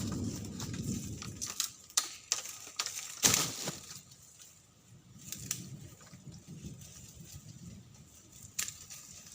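Bamboo being cut and worked by hand: sharp knocks and cracks at irregular intervals, the loudest about three seconds in, over a soft rustle.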